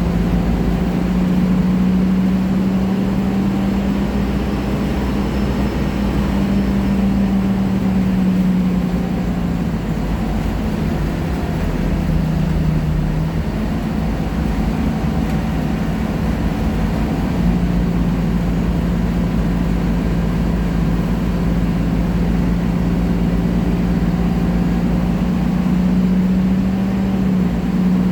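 Diesel engine of a Scania K310IA articulated BRT bus running under way, a steady low drone whose pitch shifts about ten to thirteen seconds in before holding steady again.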